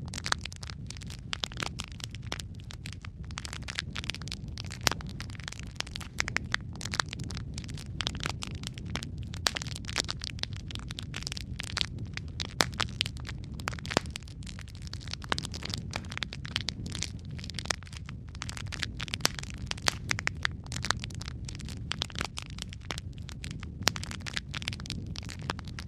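Wood fire crackling in a fireplace: a steady low rumble of flame with frequent irregular sharp pops and snaps.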